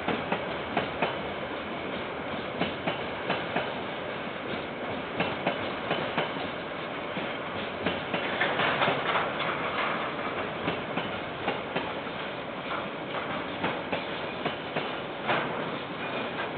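A KiwiRail train rolls past with a steady rumble, its wheels clacking over the rail joints again and again, and grows louder for a couple of seconds about halfway through. It is heard through a security camera's microphone, which cuts off the higher sounds.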